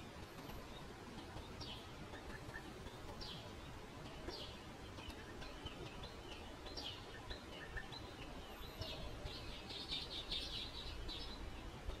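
Small birds chirping: short high chirps every second or two, then a quick run of chattering about nine seconds in, over a steady low background rumble.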